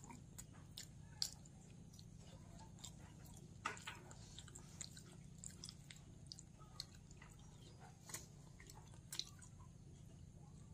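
A person chewing food: soft, irregular mouth clicks and smacks, a few of them louder, over a faint steady low hum.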